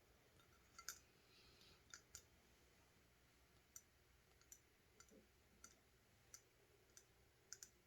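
Faint, irregular clicks of fingernails tapping on a glass nail polish bottle, about a dozen light taps spread unevenly, some in quick pairs.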